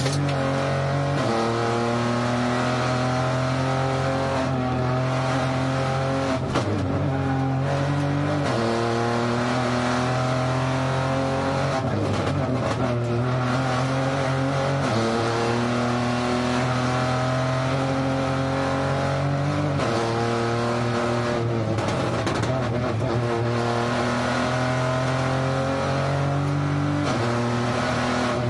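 Rally car engine heard from inside the cockpit at speed, its pitch holding and then jumping with gear changes, and dipping and climbing back a few times as the driver brakes, downshifts and accelerates.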